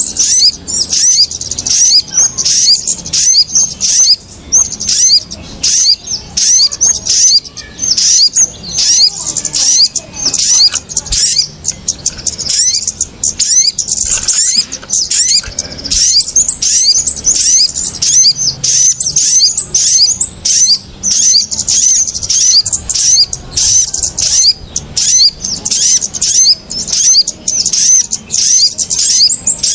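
Busy, noisy chatter of small birds from a bird-trapping lure recording that mixes kemade and sogon (little spiderhunter) calls. Rapid high chirps come several a second without a break.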